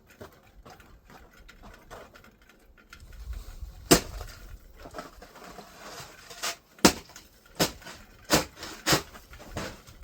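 Shovel chopping and scraping at packed ice and snow: a run of sharp strikes, one about four seconds in and several more in quick succession in the second half, between faint scraping.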